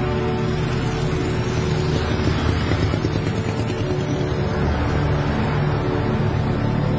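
A motor vehicle's engine running and passing, louder around the middle, over a held, dark music score.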